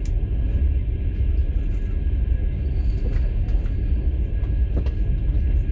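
Passenger train running, heard inside the carriage: a steady low rumble with a few faint clicks.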